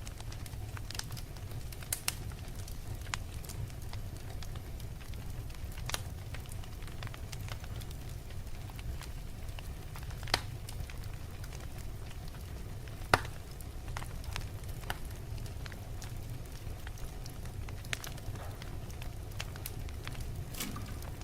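Fire crackling: a steady low rumble with irregular sharp pops, two of them louder, about halfway through and a few seconds later.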